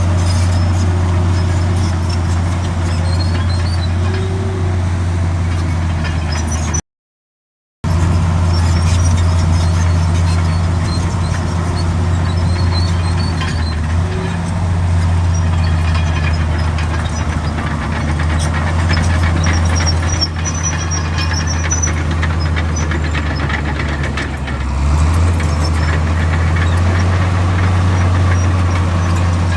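Heavy diesel earthmoving machinery running steadily with a deep engine hum, with scattered high squeaks over it. The engine note shifts up briefly near the end, and the sound cuts out completely for about a second some seven seconds in.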